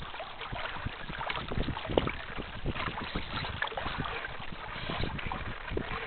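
Water splashing and slapping irregularly against the hull of a radio-controlled sailing yacht, with wind buffeting the on-board camera's microphone.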